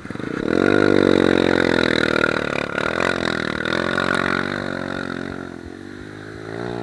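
Suzuki Gixxer's single-cylinder motorcycle engine revving up under throttle in the first second, then running at fairly steady revs that waver with the throttle. It eases off and picks up again near the end.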